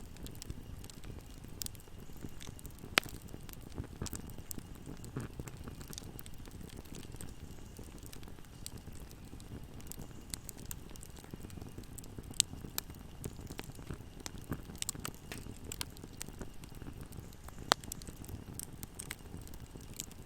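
Wood fire burning in a fireplace: a steady low rumble of flames with constant small crackles and three louder sharp pops spread through it.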